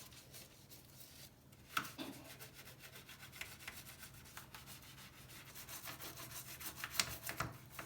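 Repeated short rubbing strokes, with sharper clicks about two seconds in and again near the end.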